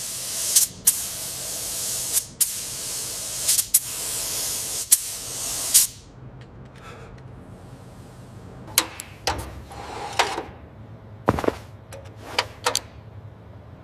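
Hissing spray in several long pushes, with short clicks between them, for about six seconds. Then quieter scattered clicks and knocks of small metal parts being worked, with one low thump.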